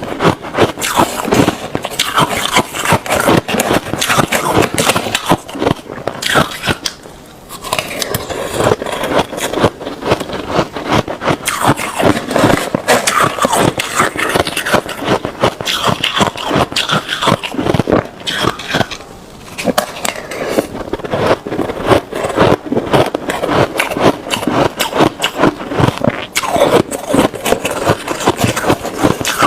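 Ice being chewed close to the microphone: dense, rapid crunching and crackling of the ice breaking between the teeth, pausing briefly twice, about a quarter and two-thirds of the way through.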